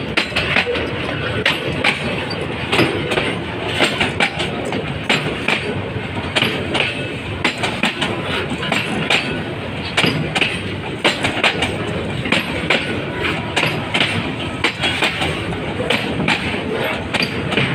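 Container freight train's flat wagons rolling past, steel wheels clattering over the rail joints: a steady rumble broken by frequent sharp clicks.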